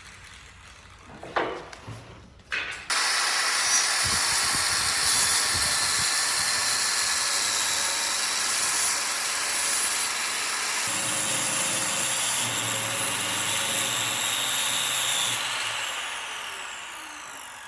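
A power tool working wood. After a few light knocks it starts abruptly about three seconds in and runs with a loud, steady hiss. Near the end it winds down, its pitch falling as it slows.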